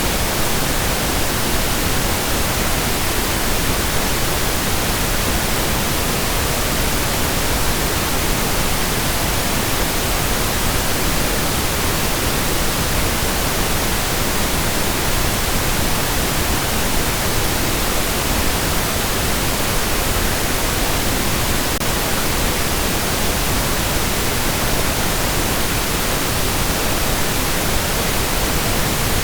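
Steady synthetic pink noise: an even, unchanging hiss across the whole range, with no events or variation.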